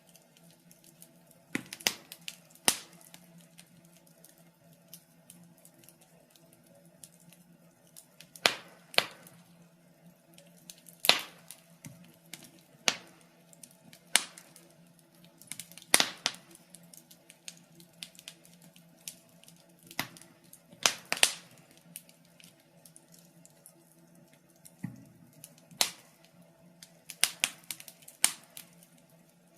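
Wood fire crackling in a fireplace: irregular sharp pops and snaps every second or two, some coming in quick clusters, over a faint steady low hum.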